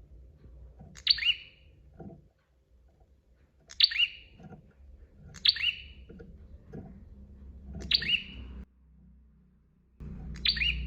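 Prenjak, a small Indonesian warbler, calling: five short, sharp, high chirps spaced about two seconds apart, over a low background hum.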